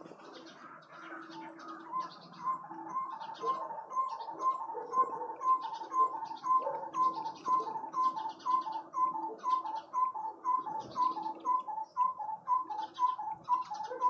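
A bird calling a long, even series of short hooting notes, about two a second, starting about two seconds in, while smaller birds chirp higher up.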